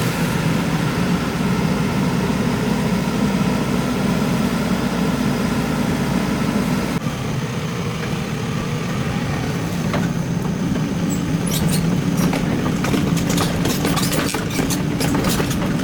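Excavator's diesel engine running steadily, with a run of sharp knocks and clatters in the second half.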